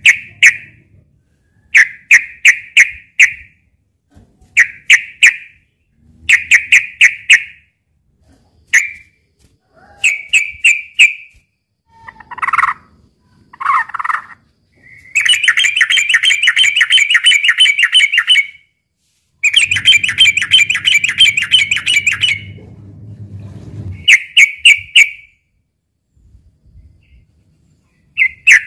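Yellow-vented bulbul (trucukan) calling in short bubbly phrases of quick notes, repeated every second or two, with two longer rapid chattering runs in the middle, the excited fighting calls used to provoke other trucukan into singing.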